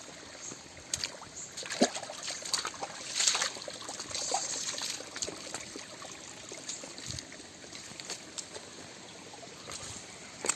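Clear mountain stream trickling and splashing, with scattered small splashes and knocks and a brief louder rush about three seconds in.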